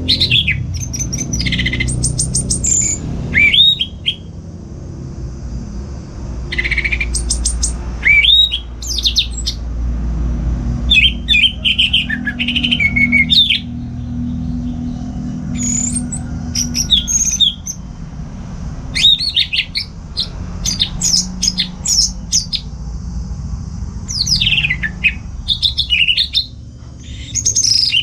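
Orange-headed thrush (anis merah) singing, bright varied phrases of quick whistles, slurs and chirps in clusters with short pauses between them, over a steady low rumble.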